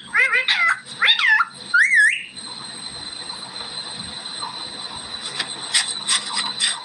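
Indian ringneck parrot giving a quick series of shrill, bending screeching calls for about two seconds, then falling quiet apart from a few faint clicks near the end.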